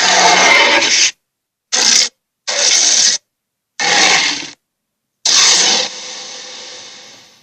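Five short, loud bursts of a noisy sound effect, separated by dead silence. The last burst fades out slowly over about two seconds.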